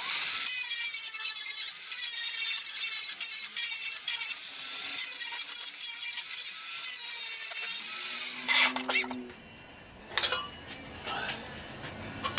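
A power tool grinding or cutting metal, a harsh continuous whine that starts suddenly. It runs about eight and a half seconds, then the tool winds down and stops, followed by a few light knocks.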